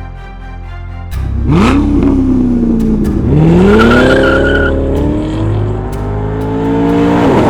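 Chevrolet C7 Corvette V8 running through a Borla aftermarket exhaust, revving hard about a second in. The pitch shoots up, sags, then climbs again and keeps rising as the car accelerates. Near the end the pitch drops sharply, like an upshift, and the engine pulls on.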